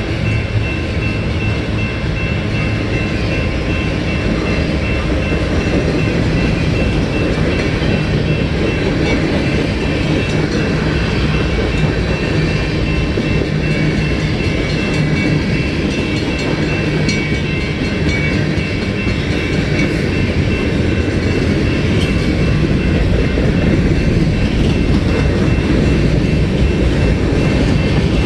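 Freight train cars rolling past, a steady loud rumble and rattle of wheels on rail with a thin high ring held throughout.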